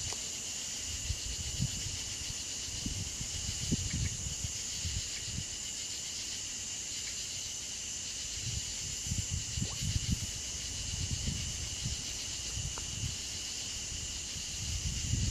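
Steady, high-pitched chorus of insects trilling, likely crickets, with scattered low rumbles through it.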